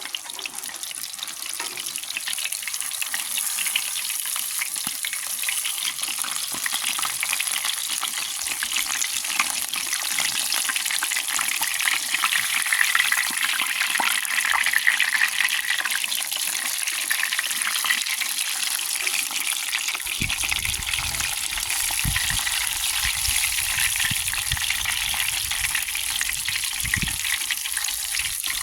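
Battered fish frying in a pan of hot oil: a steady crackling sizzle. From about twenty seconds in, low rumbling thumps sound beneath it.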